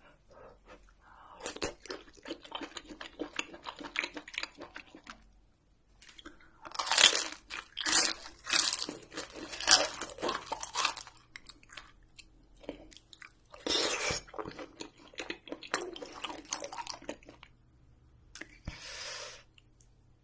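A person chewing spicy braised octopus and seafood close to the microphone, with crunchy, wet bites. The chewing comes in four bouts with short pauses between them and is loudest in the second bout.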